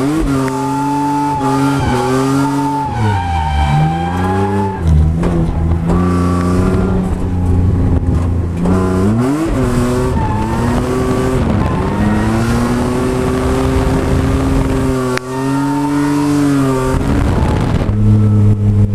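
Ford Falcon FG ex-taxi drift car's engine revving hard, its note climbing and falling again and again, with a deep drop about four seconds in and a sharp climb about nine seconds in, over the hiss of tyres sliding on the pavement.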